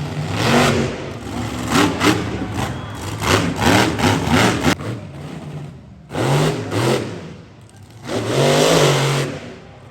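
Monster truck engine revving hard in repeated bursts: a quick run of blips over the first few seconds, then two longer rev-ups about six and eight and a half seconds in.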